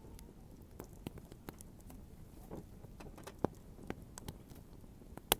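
Wood fire crackling: irregular pops and snaps over a low background noise, with one sharp crack near the end.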